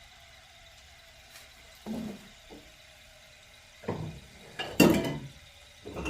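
A handful of separate knocks and clinks, irregularly spaced after a quiet start, the loudest about five seconds in.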